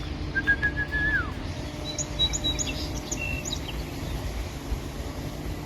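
Small wild birds calling: a held whistled note that falls away at its end, then a quick run of short high chirps, over a steady low rumble.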